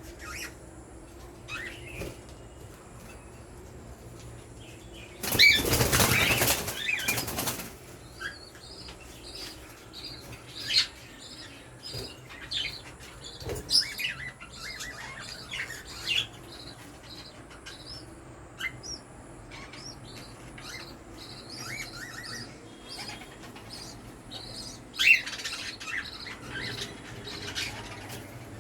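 Budgies chirping in short, scattered calls, with a burst of wing flapping lasting about two seconds, about five seconds in.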